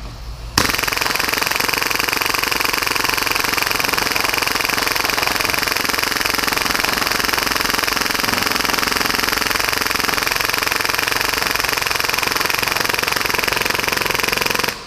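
Full-auto HPA-powered Tokyo Marui Hi-Capa airsoft pistol, set up for about 30 rounds per second, firing one unbroken stream through a 300-round hi-cap magazine. It starts about half a second in and cuts off abruptly near the end.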